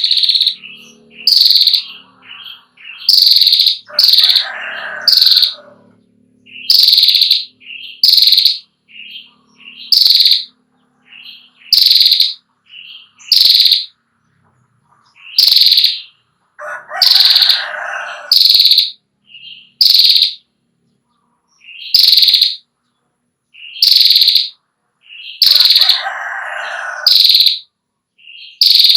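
A female prenjak (prinia-type songbird) calling loudly in short, sharp high notes, often in pairs, repeated about every second or two. Three times it is joined by a lower, rattling chatter lasting over a second.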